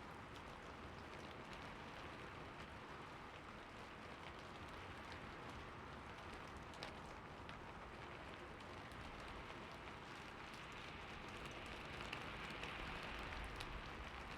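Soft, steady city rain falling, an even hiss with scattered drop ticks, swelling slightly for the last few seconds.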